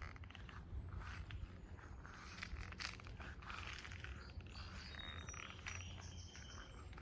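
Faint rustling and footsteps, with a few short, high, thin chirps in the second half.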